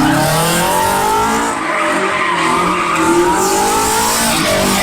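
A car drifting: its engine revs up and down at high revs while the tyres squeal and skid on the pavement.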